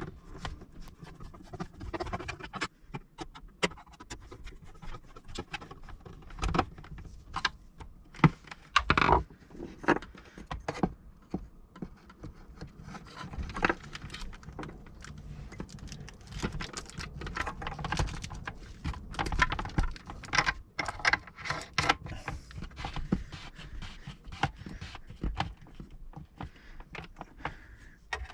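Screwing down a newly fitted pump in a shower control unit by hand: irregular clicks, taps and scrapes of a screwdriver and the plastic casing and fittings, with a few louder knocks.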